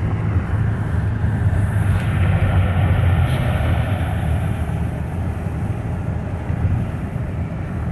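Steady road and engine noise inside a moving car's cabin, a constant low rumble with tyre hiss.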